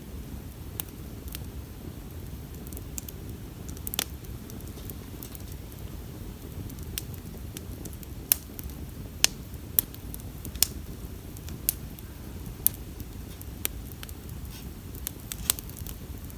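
Wood bonfire crackling: sharp, irregular pops from the burning wood over a low steady rumble, the pops coming more often in the second half.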